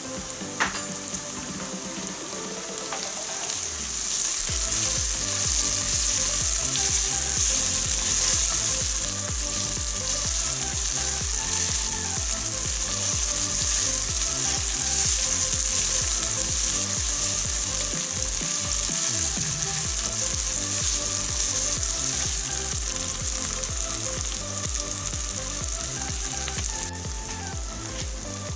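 Tomato and onions frying in hot oil in a nonstick pan, sizzling steadily while being stirred with a spatula. A single knock comes about half a second in, and the sizzle grows louder about four seconds in.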